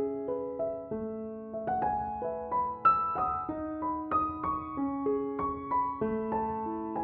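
Soft piano music: a slow, gentle melody of single notes and chords, each struck note ringing on and fading.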